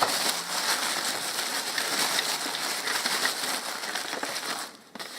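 Packing paper being unwrapped and crumpled by hand: a continuous crinkling and rustling that stops shortly before the end.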